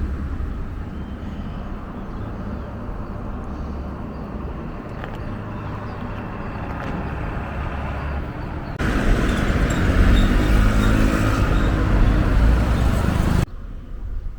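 Road traffic with a low rumble, then a louder stretch of about four and a half seconds as a motor vehicle passes close, which cuts off suddenly.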